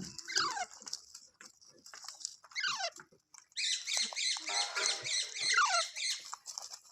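Indian ringneck parakeet calling: three sharp squawks, each falling steeply in pitch, with a burst of rapid high chatter in the second half.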